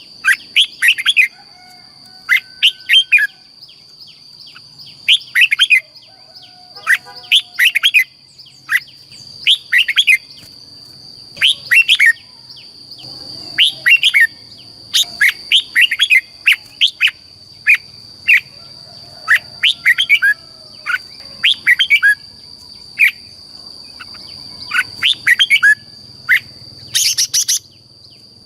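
Red-whiskered bulbul singing: short, bright, chirpy phrases of quick falling notes repeated every second or two, over a steady high-pitched whine.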